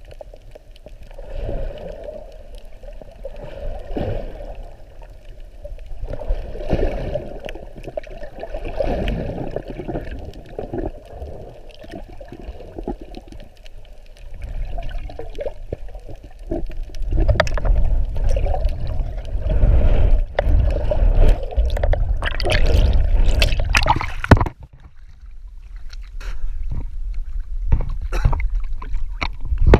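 Water sloshing and gurgling, with uneven low rumbling that grows louder about two-thirds of the way through and then cuts off abruptly.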